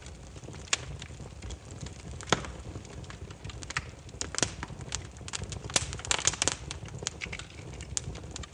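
Burning firewood crackling, with irregular sharp snaps and pops over a low steady rumble of the flames; the snaps come thickest about halfway through.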